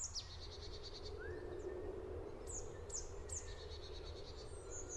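Small birds calling in open grassland: several times a high, sharp downward-sliding note is followed by a quick trill of short notes. A steady low background hum runs underneath.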